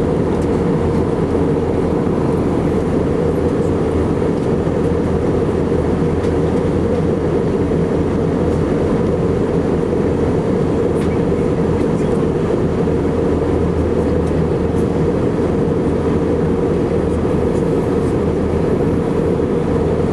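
Steady cabin noise inside an Airbus A319-115 in flight, heard from a seat near the wing: an even engine and airflow roar, strongest in the low range, with a faint steady hum above it.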